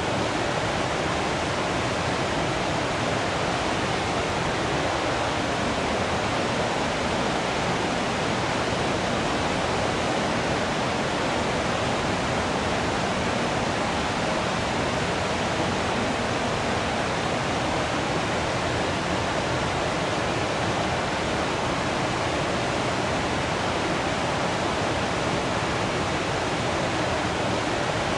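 Waterfall water rushing in an even, unbroken flow.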